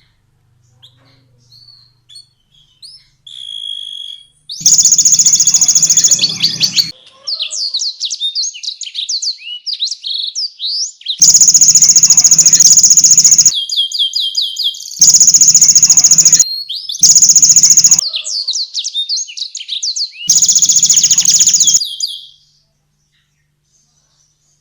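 Domestic canary singing a loud, fast song: several long rattling trills of one to two seconds each, with quick whistled sweeping notes between them. The song stops shortly before the end.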